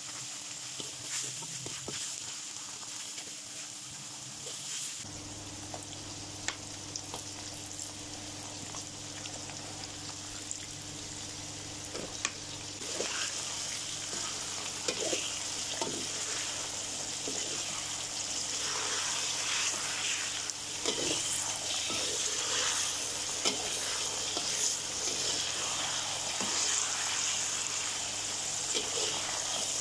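Chicken pieces sizzling in hot oil in a steel wok, stirred and turned with a metal spatula that scrapes and clinks against the pan now and then. The sizzle grows louder about halfway through.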